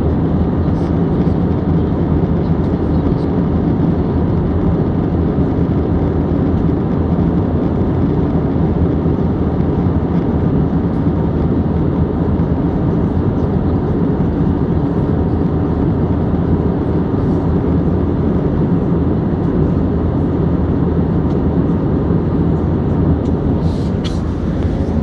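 Steady, deep cabin noise of a commercial airliner in flight, heard from inside the passenger cabin: the engines and the air rushing past the fuselage make an unbroken hum.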